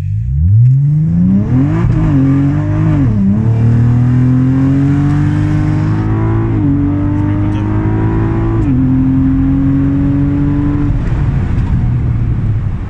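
Cadillac ATS-V's 3.6-litre twin-turbo V6 at full throttle, heard from inside the cabin, accelerating hard from a rolling start. The engine note climbs steeply, drops back with each automatic upshift several times, and falls away near the end as the throttle is lifted.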